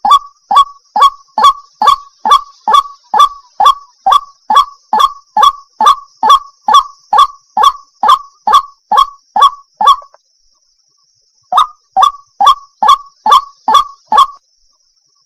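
Water hen calling: one short, loud call repeated about twice a second in a steady series. The calls break off about ten seconds in and resume after a second and a half, then stop again near the end.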